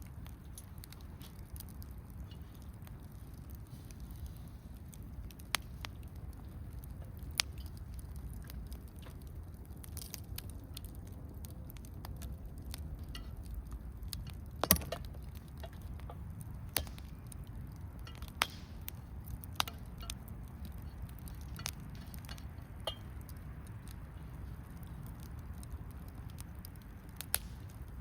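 Wood fire burning in a small fire pan, with a low steady rumble of flames and irregular sharp pops and crackles of the burning wood, the loudest pop about halfway through.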